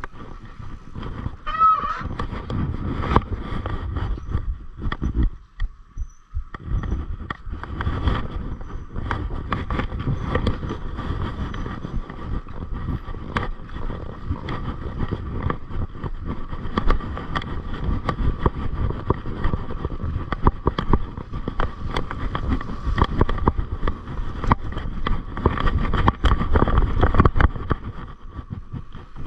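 Mountain bike riding over a rough dirt trail: a steady rumble of tyres on the ground, with constant clicks and rattles from the bike jolting over bumps and wind on the microphone. There is a short drop in the noise about five to six seconds in.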